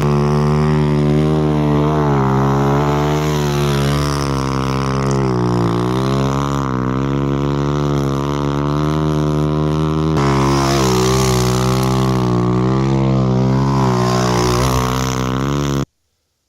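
Dirt bike engine running under load, its revs rising and falling in waves. A hard edit breaks the sound about ten seconds in, and it cuts off abruptly near the end. The rider feels the clutch has been burnt and is slipping a lot.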